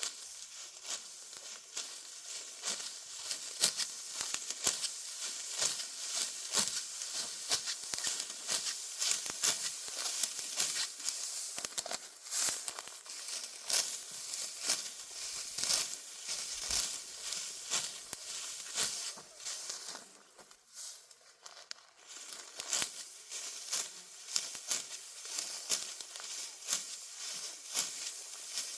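Dry wheat stalks rustling and crackling as they are handled, with many irregular sharp crunches and a short lull about two-thirds of the way through.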